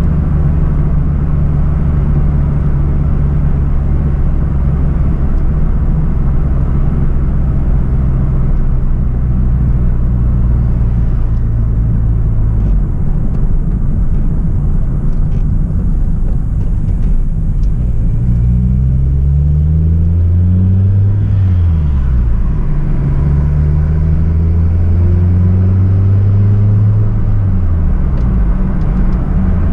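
Hyundai Tiburon's 2.0-litre four-cylinder petrol engine and exhaust on the move, holding a steady note for about the first twelve seconds. From about eighteen seconds the note climbs under acceleration, falls sharply at a gear change, climbs again and falls once more near the end.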